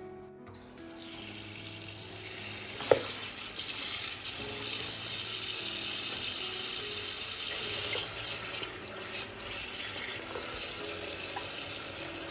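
Kitchen tap running steadily into a sink, turned on about half a second in, with a sharp knock against the sink about three seconds in.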